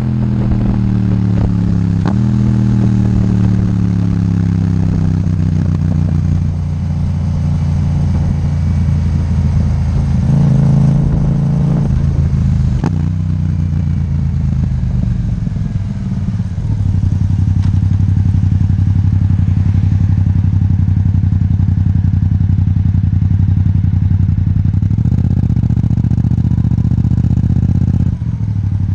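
Yamaha MT-07's parallel-twin engine through an Akrapovic titanium exhaust, its pitch falling over the first several seconds as the revs drop, then running at a steady lower note for most of the rest.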